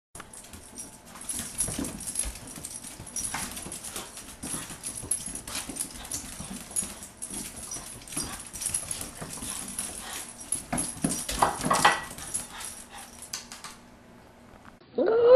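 A dog whining softly amid many short clicks and knocks, with a few short rising whines near the end; the sounds stop about a second before a loud steady tone cuts in.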